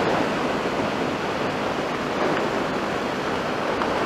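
Steady wind rush over the microphone of a motorcycle rider cruising along, an even hiss with no changes.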